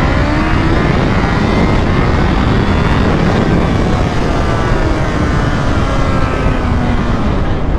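Kawasaki H2's supercharged inline-four running on the road, buried under heavy wind rush on the microphone. The engine note rises briefly at first, then slowly falls.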